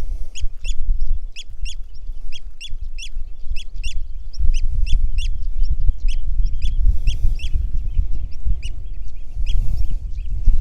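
Eurasian oystercatcher giving its loud, sharp piping calls over and over, about three a second, with a low rumble of wind on the microphone underneath.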